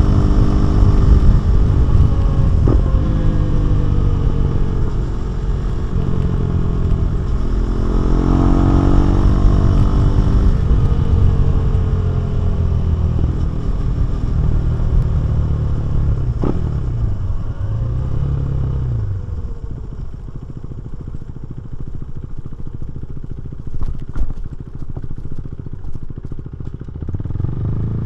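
KTM 390 Duke's single-cylinder engine and exhaust under way, the note rising and falling with throttle and gear changes. It falls quieter for several seconds in the last third, with a few sharp clicks, then picks up again near the end.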